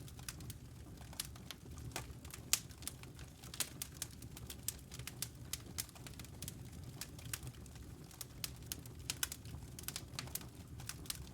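Wood logs burning in a fireplace, crackling with irregular sharp pops and snaps, several a second, over a low steady rumble.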